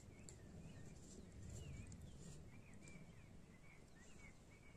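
Near silence with a bird's faint, short chirps repeating throughout, and a few faint light clicks in the first half.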